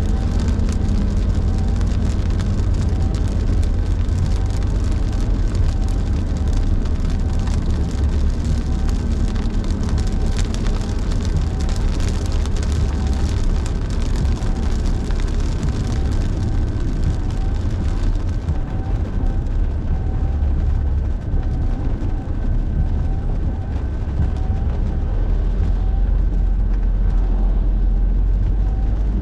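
A car driving in heavy rain: a steady low road and engine rumble under the hiss of rain and tyre spray. The hiss thins about two-thirds of the way through.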